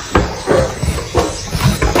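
A crowded colony of swiftlets inside a swiftlet house, calling and clicking: many overlapping sharp chirps and rattling clicks, several a second.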